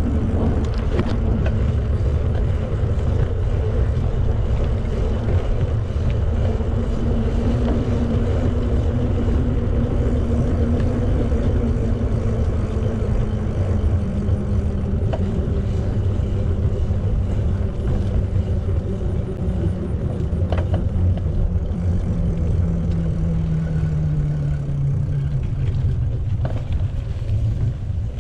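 Steady low rumble of wind and road noise while riding a bicycle, with a motor vehicle's engine tone falling in pitch as it passes near the end.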